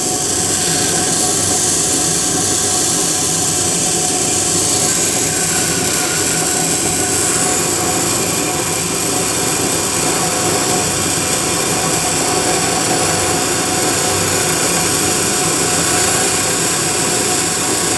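Bench grinder running with a steady whine while a steel drill bit is held against the grinding wheel, the steel rasping as it is ground and heating up toward a blue-purple temper colour.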